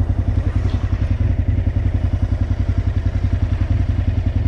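Aprilia RSV V-twin motorcycle engine running with a steady, even throb at constant low revs.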